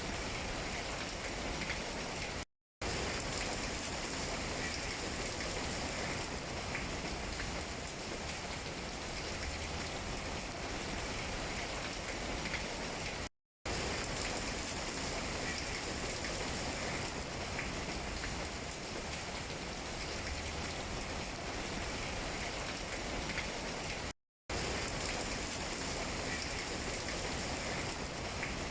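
Steady rain falling on tree leaves, an even hiss with scattered drip ticks. It cuts out to silence for a split second three times, about eleven seconds apart.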